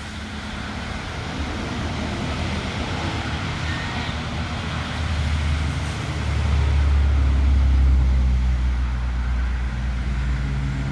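Low engine rumble of a motor vehicle, swelling from about halfway through and staying loud, over a steady hiss.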